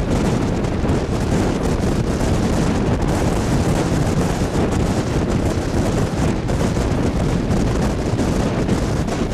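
Wind buffeting a microphone held out of a moving train's window, over the steady rumble of the passenger carriages running on the track.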